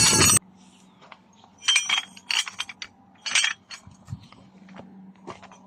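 Scattered light clinks and taps, several in quick clusters, over a faint steady low hum. A loud ringing tone burst cuts off in the first half second.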